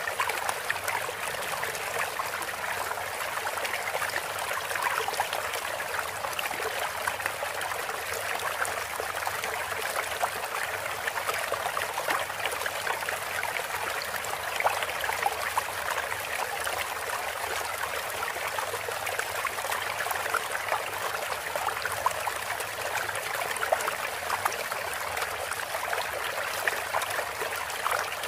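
Running water trickling steadily: a water-sound therapy interlude played for songbirds between stretches of canary song.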